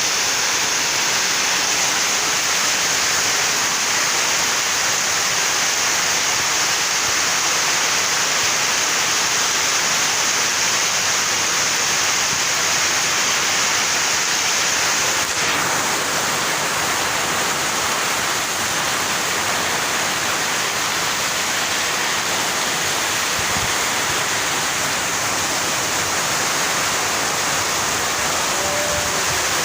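Heavy rain pouring down in a steady, dense hiss, with no breaks.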